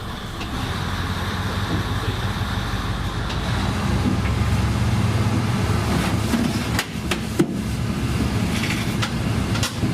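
Diesel engine of a 1965 Teikoku Sharyo-built KiHa 20 railcar running steadily, growing a little louder over the first few seconds, with a few sharp clicks a little after the middle.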